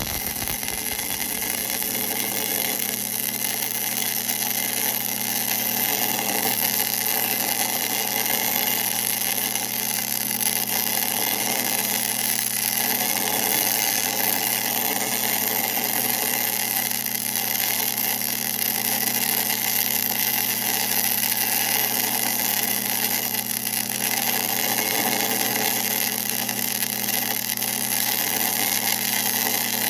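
1966 LeBlond geared-head lathe running steadily: an even motor and gearbox hum over a constant hiss.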